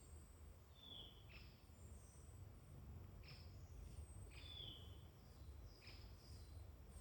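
Faint woodland birdsong: scattered short, high chirps and quick falling notes from more than one bird, over a low steady rumble.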